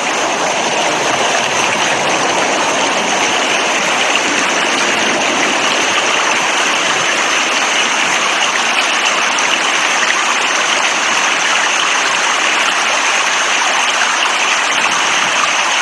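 Rain falling steadily: an even, unbroken rushing hiss of water.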